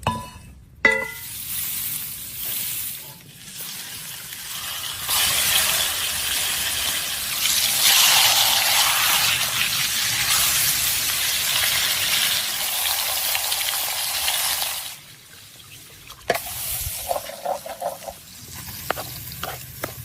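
Salmon frying in hot oil: a loud, even sizzle builds a few seconds in, holds for about ten seconds, then drops away. There is a clink near the start and scattered knocks near the end.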